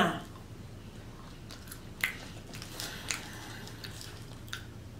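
Close-miked chewing of French fries: soft mouth clicks and a few sharper crackles at irregular moments, over a faint steady low hum.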